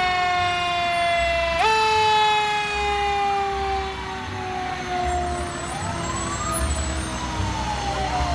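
Fire truck siren with a wailing tone that jumps up in pitch about a second and a half in and then slowly falls away, fading after about four seconds. Fainter siren glides and the low rumble of truck engines follow.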